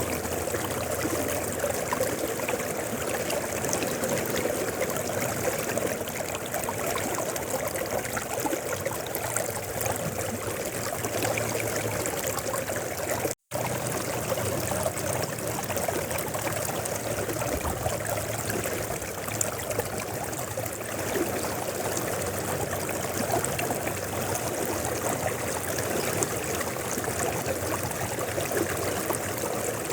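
River water flowing steadily over rocks, an even rushing sound that cuts out for an instant about thirteen seconds in.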